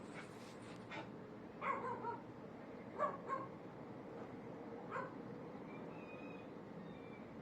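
A dog barking a few times with short, separate barks, the first about two seconds in and the last about five seconds in.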